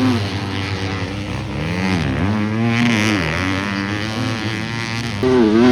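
250cc four-stroke motocross bikes running on a qualifying lap, engines revving up and down in pitch as the riders shift and throttle. A louder rev surges in near the end as a bike comes close.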